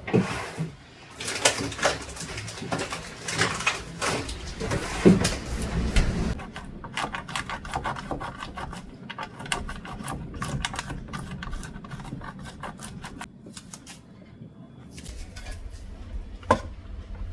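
Household handling noises: irregular knocks and clatter, then a long run of quick light clicks and taps, and a single sharp knock near the end.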